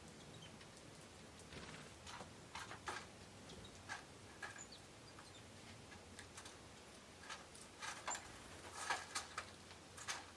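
Forest birds giving short, sharp ticks and brief chip notes, irregular and faint, coming in loose clusters with a denser run about eight seconds in.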